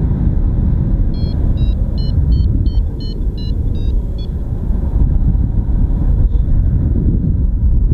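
Wind rushing over the microphone in flight, with a flight variometer beeping quickly, about three short beeps a second, from about one second in to about four seconds in, the tone that signals the glider is climbing in lift.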